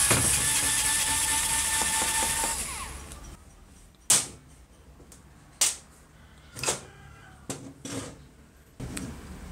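A small motorised tool running steadily, then winding down and stopping about three seconds in. Five separate sharp clicks or knocks follow.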